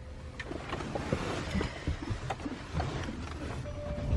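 Rustling and scattered light clicks of people settling and handling things inside a car's cabin, over a faint low rumble.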